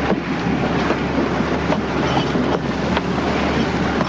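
A boat's engines running steadily with a low hum, with a few sharp knocks scattered through.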